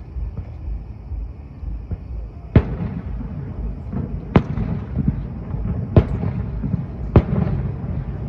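Aerial fireworks bursting: four sharp bangs, the first about two and a half seconds in and the rest a second or two apart, each trailing off in rumble and crackle, over a steady low rumble.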